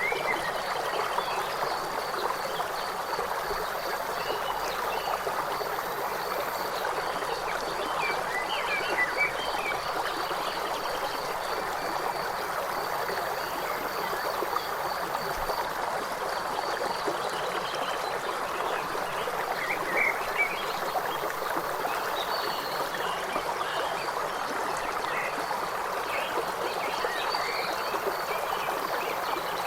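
A river flowing steadily, with short bird chirps breaking in every few seconds.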